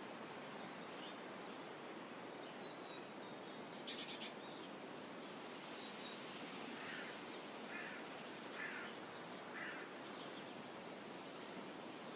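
Steady shoreline ambience of calm, gently rippling saltwater, with faint bird chirps scattered throughout. About four seconds in a bird gives a quick rattle of five or so notes, and later four soft calls come about a second apart.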